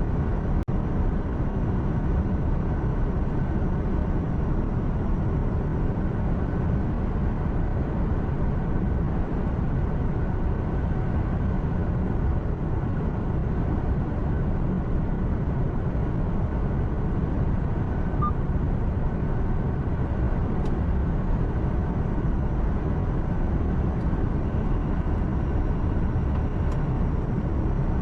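Steady drone inside a truck cab while driving: engine hum and road rumble, heaviest in the low end. Now and then there is a faint tick.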